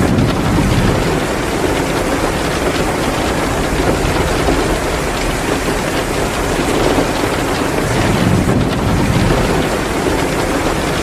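Steady heavy rain mixed with the crackle of a wood fire in a fireplace. A low rumble swells briefly at the start and again about eight seconds in.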